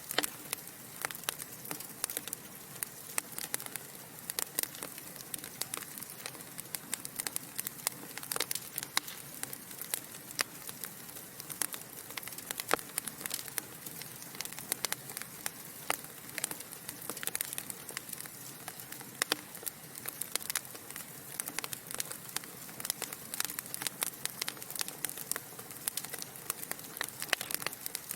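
Burning logs in a fireplace crackling and popping: many short, irregular snaps, several a second, over a soft steady hiss.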